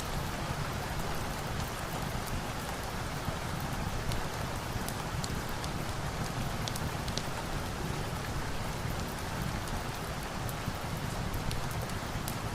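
Steady rain, with scattered faint sharp ticks over it.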